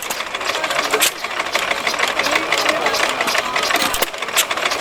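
Vintage stationary engine running with a regular clattering beat, with people talking in the background.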